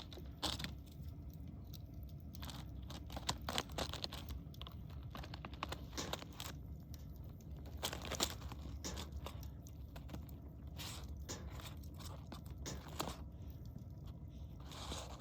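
A person chewing crispy bacon: irregular crunches throughout, over a low steady rumble.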